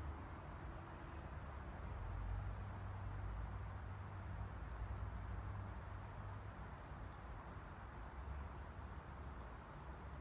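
Outdoor background: a steady low rumble with short, high bird chirps about once a second.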